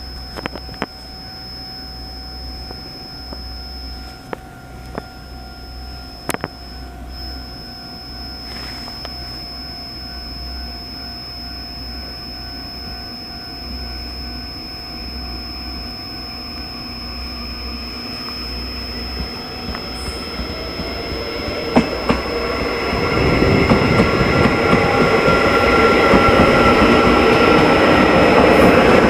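A train approaching, its rumble and wheel noise building over the last ten seconds and loud near the end. A steady high-pitched tone runs underneath throughout.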